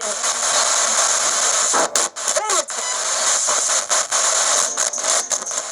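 Spirit box radio scanner sweeping through stations: a steady hiss of static chopped by frequent short dropouts, with a brief voice fragment about two and a half seconds in.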